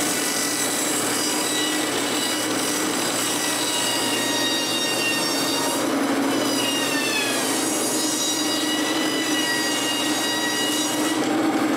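A powered saw milling planks from a log, running steadily with a high whine; about halfway through, the whine drops in pitch briefly as the saw takes more load, then recovers.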